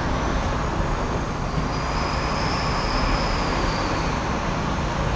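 Steady running noise of an R46 subway car heard from inside: a low rumble and rail noise, with a faint high whine in the middle.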